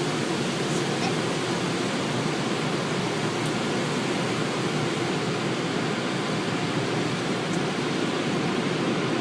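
Automatic car wash running: a steady, even rushing noise.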